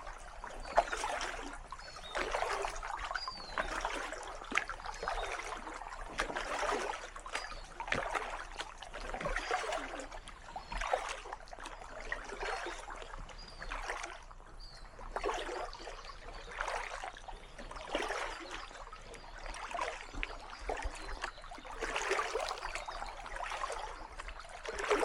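Kayak paddle blades dipping into calm water in a steady rhythm, about one stroke a second, each stroke a soft splash with water trickling and dripping off the blade.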